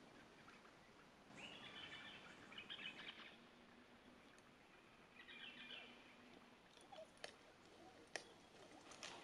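Faint forest birdsong: two spells of quick, high chattering bird calls, with a few sharp clicks near the end.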